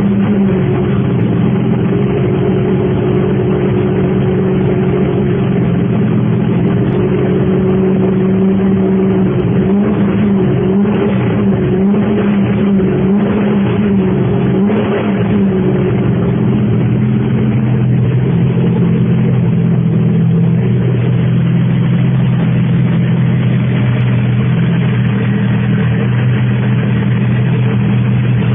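ARCA stock car's V8 engine running at a high idle, its pitch wavering with short throttle blips about halfway through, then settling to a steadier, lower idle.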